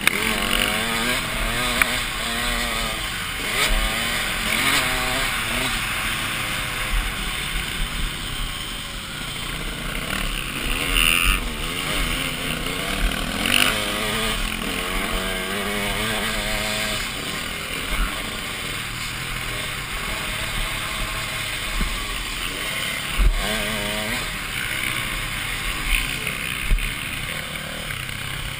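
Motocross bike engine, heard from a helmet-mounted camera while riding, its revs rising and falling again and again through acceleration and gear changes. A few short sharp knocks stand out over the engine.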